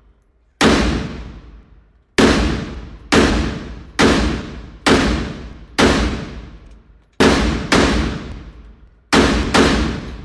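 Rifle fired about ten times in an uneven string, some shots a second or more apart and some in quick pairs. Each shot is a sharp bang that rings out for about a second.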